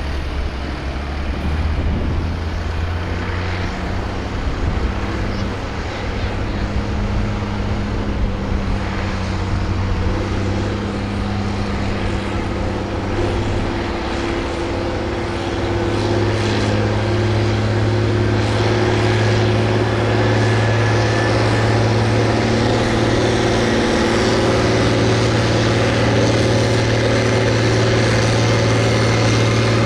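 Farm tractor engine running hard under load in a sled pull, with a steady drone that climbs in pitch and grows louder partway through, then holds high.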